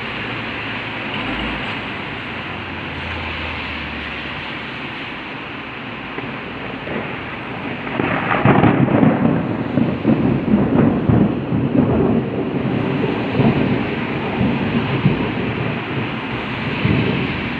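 Steady rain, then about halfway through a loud thunderclap that crackles and rolls on in uneven rumbles for several seconds.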